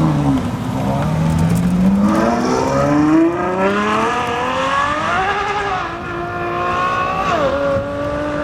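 High-performance car engine accelerating hard under full throttle, its pitch climbing for about five seconds. The pitch drops sharply at an upshift about seven seconds in, then holds.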